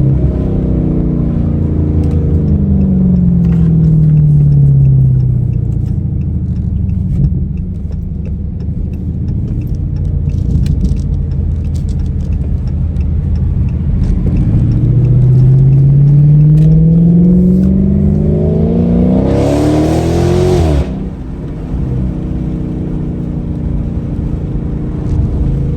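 V8 engine of an SRT muscle car running while driving: its pitch falls as it slows a few seconds in, holds steady at cruise, then climbs for about six seconds under acceleration to a short loud rush at the top before cutting back suddenly, as on an upshift or lift-off.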